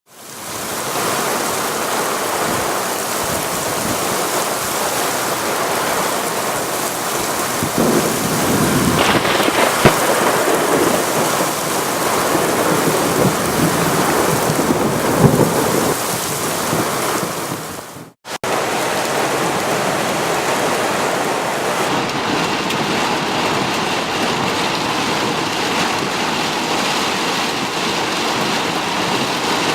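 Heavy rain pouring down as a steady, dense hiss. It swells louder for several seconds in the middle, with a couple of sharp louder hits, and briefly cuts out about two-thirds of the way through before carrying on.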